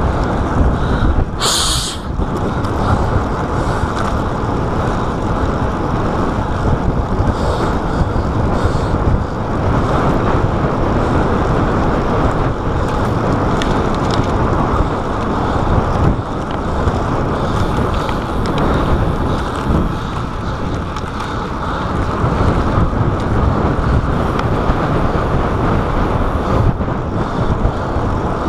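Steady, loud wind rush on a chest-mounted GoPro's microphone while cycling at speed, with road and traffic noise under it. A short high hiss comes about a second and a half in.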